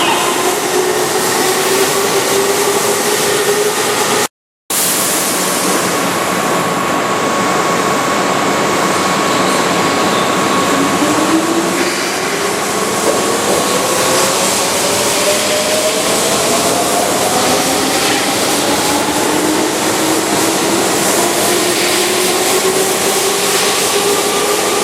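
Keihan Electric Railway train, formation 1502, running with steady rolling noise and a thin motor whine. The sound cuts out completely for a moment about four seconds in. From about ten seconds in, several whining tones rise steadily in pitch as the train accelerates.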